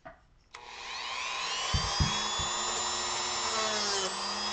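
Dremel rotary tool switched on about half a second in, its whine rising as it spins up over about a second and then running steadily at high speed, carving wood. A couple of low knocks come near the two-second mark.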